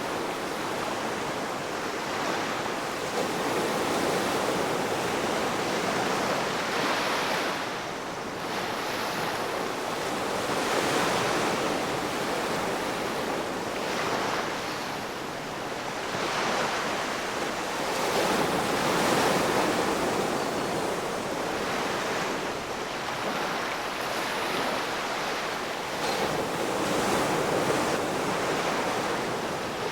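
Ocean waves breaking and washing on the shore, a continuous surf noise that swells and eases every few seconds.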